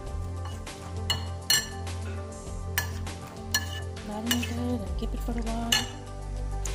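Metal spoon clinking against a ceramic bowl while stirring marinade into chicken pieces: about six sharp clinks at irregular intervals, over background music.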